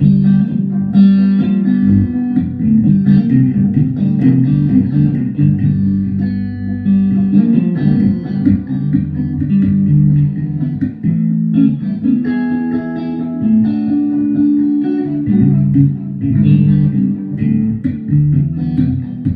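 Guitar music: plucked notes over a heavy low register, playing throughout.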